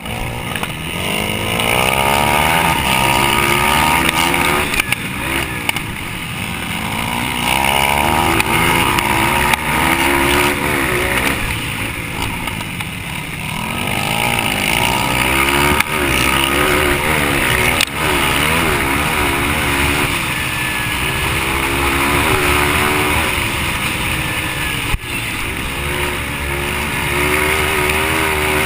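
Yamaha TT-R230 dirt bike's single-cylinder four-stroke engine racing on a dirt track, its pitch repeatedly rising under throttle and dropping off with each gear change and corner. A couple of short sharp knocks sound in the second half.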